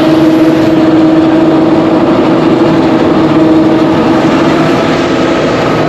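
Engine-powered rice threshing machine running steadily at constant speed, with a loud, even hum.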